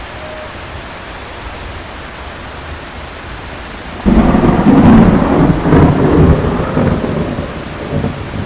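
Steady heavy rain, then about four seconds in a sudden loud thunderclap that rolls and rumbles for about three seconds before fading away.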